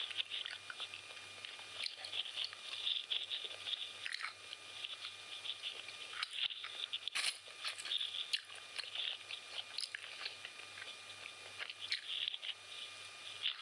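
Close-up chewing and biting of chicken biryani: irregular wet mouth smacks and small crunches, many to the second.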